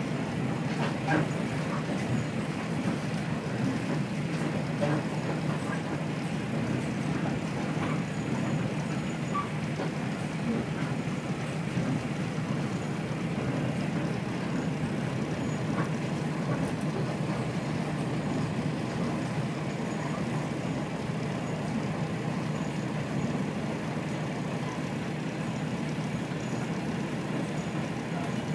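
Steady running noise of a Kashima Rinkai Railway 6000-series diesel railcar heard inside the cabin at speed: a low, even drone of the engine and wheels on rails, with a few light clicks.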